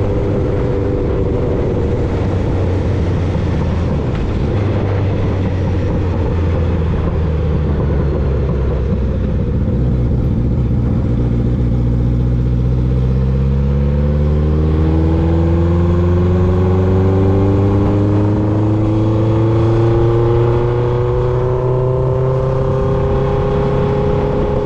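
1995 Honda CB750 Nighthawk's air-cooled inline-four running through a Vance and Hines 4-into-1 exhaust, under way with wind and road noise. The engine note eases slightly at first, then rises steadily through the second half as the bike accelerates.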